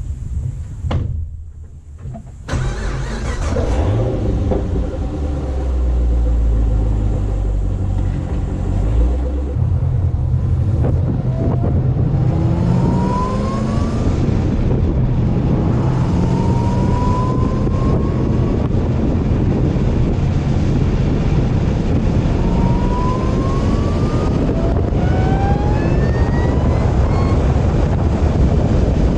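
Supercharged 6.2-litre LSA V8 of a Camaro ZL1 under acceleration, its supercharger whine climbing in pitch with engine speed, then dropping and climbing again several times as it pulls through the gears, over steady engine and road noise. The sound drops off briefly in the first couple of seconds before the engine noise comes in.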